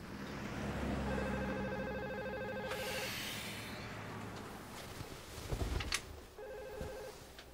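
Telephone ringing: a steady electronic ring of about two seconds, then a second, shorter ring near the end. Between the rings there is a brief burst of hiss and a few soft knocks.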